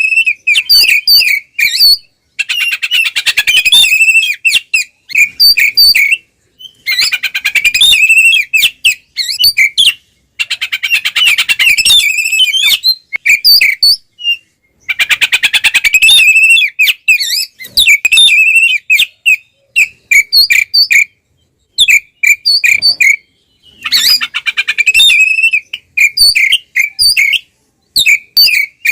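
Oriental magpie-robin (kacer) singing loudly in repeated phrases of about four seconds. Each phrase is a rapid jumble of notes followed by a string of separate whistles, with brief silences between phrases. This is the 'ngeplong' fighting song used as a lure to rouse other kacer.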